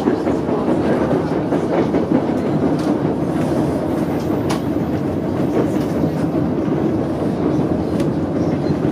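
White Pass and Yukon Route narrow-gauge passenger train rolling along the track, heard aboard: a steady rumble of the coach with faint scattered clicks from the wheels and joints.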